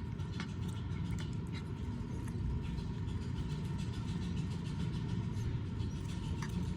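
Cat chewing a pork rib, with scattered small clicks and crunches over a steady low rumble.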